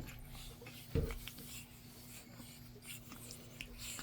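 Pug puppies moving about and scuffling, with faint scratching and rustling and one short low sound about a second in, over a faint steady hum.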